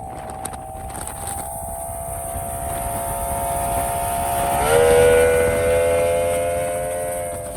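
Newly built drag boat engine running, its pitch climbing quickly about four and a half seconds in as it is throttled up, then holding steady and louder. The engine is in its break-in period.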